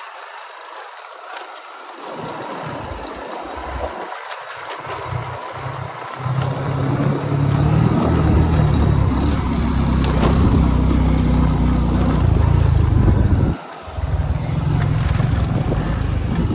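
Motorbike engine running on the move. It gets louder and fuller about six seconds in, drops out briefly near the end, then picks up again.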